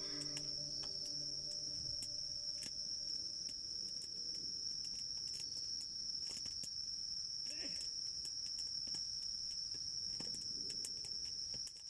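Insects trilling steadily in one continuous high-pitched drone, with scattered small crackles and pops from a campfire. The tail of soft ambient music fades out at the start.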